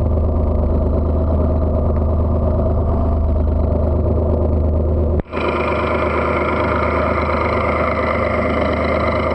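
Fishing boat's machinery running with a steady engine drone and low hum. About five seconds in the sound drops out for an instant, then carries on brighter.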